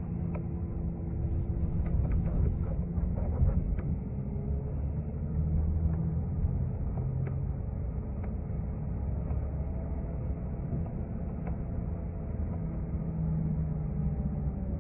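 City transit bus running, heard from inside the cabin: a steady low engine and road rumble with occasional light rattles, and a faint drivetrain whine that glides in pitch near the end.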